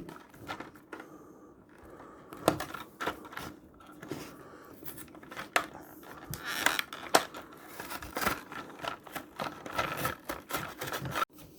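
A toy's retail packaging being opened by hand: irregular scratching, scraping and tearing with many sharp clicks.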